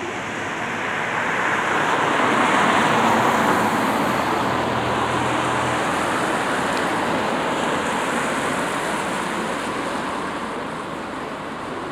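Road traffic: a vehicle passes close by, its noise swelling over the first few seconds and then slowly fading.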